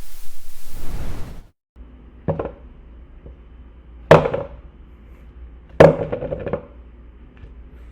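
A steady hiss that cuts off suddenly, then three sharp impacts about two seconds apart, each with a short ringing tail; the second and third are the loudest.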